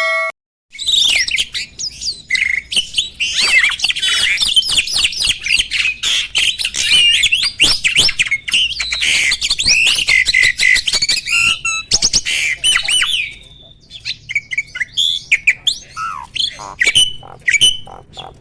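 A male jalak (starling) singing loudly in a dense, chattering run of rapid whistles, squeaks and clicks, the full 'gacor' song of a mature male in breeding condition. About 13 seconds in the run breaks off, and the song goes on as shorter separate squawks and calls.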